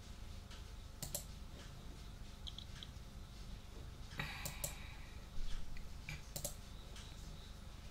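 Scattered clicks from a computer keyboard and mouse: single taps and short pairs spaced a second or more apart, with a brief rustling scrape about halfway through, over a steady low hum.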